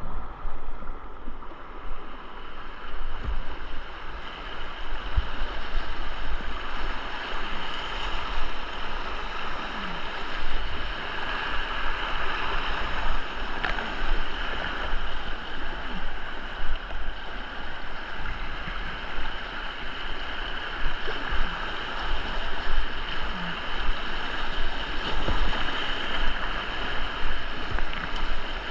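Rushing whitewater of a river rapid, a steady hiss and roar, with wind buffeting the microphone as a low rumble.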